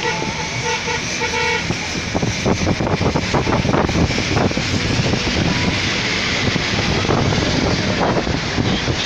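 A horn sounds one held note for about the first second and a half. It is followed by loud, continuous vehicle travel noise: rumble with rattling.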